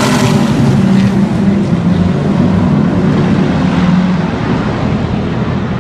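Race cars passing at speed with engines running loud as a pack goes by, the sound gradually fading as the cars draw away.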